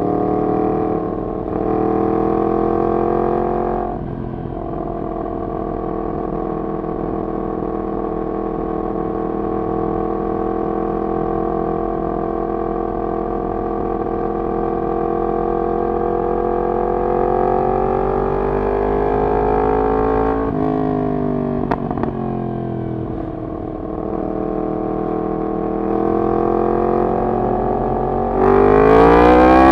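Yamaha MT-10's crossplane inline-four through a decat full exhaust system, heard while riding: the engine holds a fairly steady note for most of the time, drops sharply about two-thirds of the way in with a few brief changes, then climbs steeply under hard acceleration near the end.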